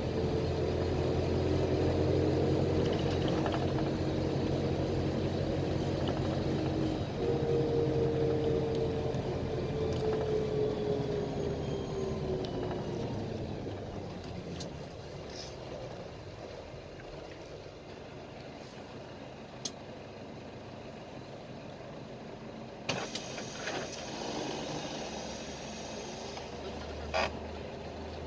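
PAZ Vector Next bus's diesel engine heard from inside the cabin as the bus drives. About seven seconds in the engine pitch steps up, then falls away as the bus slows, settling into quieter low running. A few sharp clicks and knocks come near the end.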